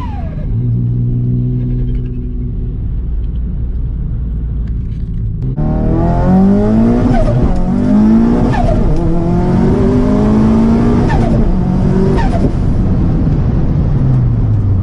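Turbocharged car engines revving up and dropping back, with a quick falling turbo whistle each time the throttle is released, the turbo flutter on lift-off. A different recording takes over about five and a half seconds in, with repeated rev-and-release cycles.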